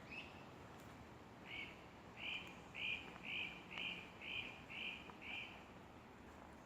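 A bird calling: one short rising note, then a run of eight evenly repeated notes, about two a second, over a faint steady background hiss.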